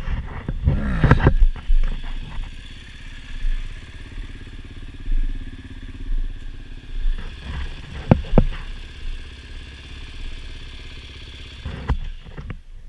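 Dirt bike engine running steadily, with louder gusty noise in the first couple of seconds and a few sharp knocks or clatters about eight seconds in and near the end.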